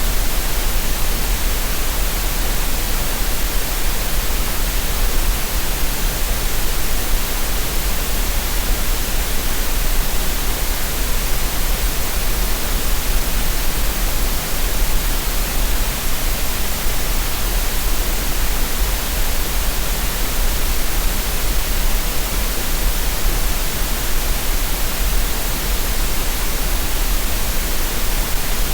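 Generated green noise for relaxation and tinnitus masking: a steady, unvarying hiss with a strong low rumble underneath.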